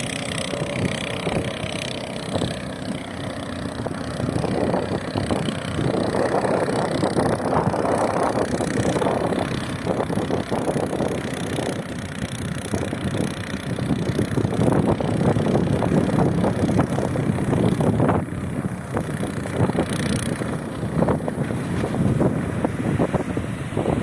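A 7 hp mud motor (surface-drive outboard) running as the boat moves through shallow water, with wind rushing over the microphone; its loudness swells and dips.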